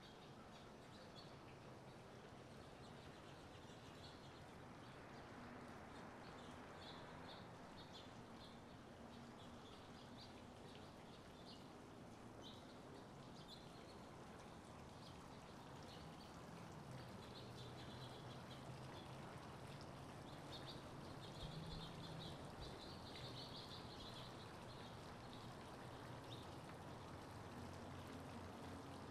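Quiet morning ambience: small birds chirping faintly and repeatedly, busiest a little past the middle, over a low steady hum.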